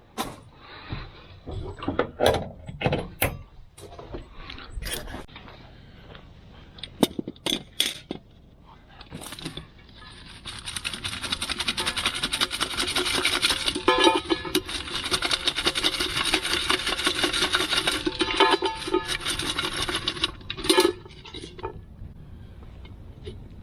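Scattered knocks and clicks of objects being handled, then about ten seconds of continuous rapid scraping or rasping that stops with a final knock.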